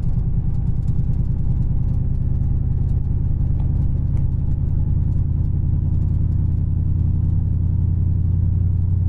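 Dodge Charger Scat Pack's 6.4-litre HEMI V8 running at a steady cruise, heard from inside the car as a constant low drone with tyre and road noise.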